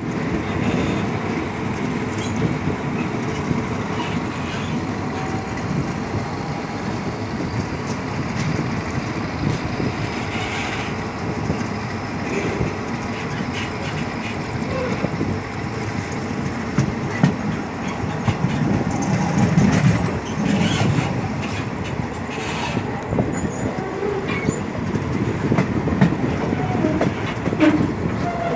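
Diesel-hauled passenger train pulling into a station, a steady rumble with its wheels clacking over the rail joints and a scatter of sharper clanks.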